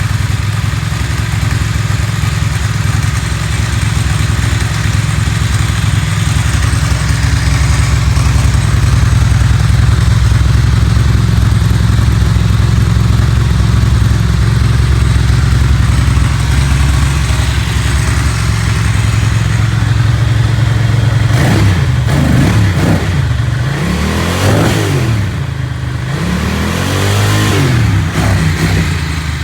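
Ducati Monster 900's air-cooled 90-degree L-twin engine running at a steady idle, then revved several times near the end, the pitch rising and falling with each blip of the throttle.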